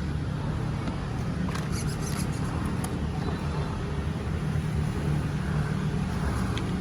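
Nitro engine of a Hobao Hyper VS RC buggy running steadily at an even pitch while being broken in.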